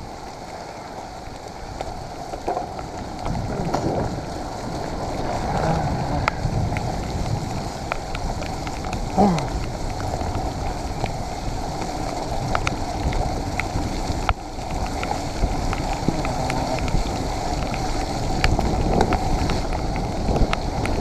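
Mountain bike riding a wet, muddy trail: a steady rush of tyre noise and wind buffeting the microphone, with scattered sharp rattles and clicks from the bike, growing louder a few seconds in.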